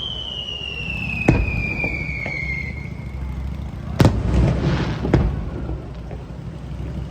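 Fireworks display: a falling whistle from a whistling shell fades out about three seconds in, while shells burst with sharp bangs. The loudest bang comes about four seconds in, followed by about a second of crackling, then another bang.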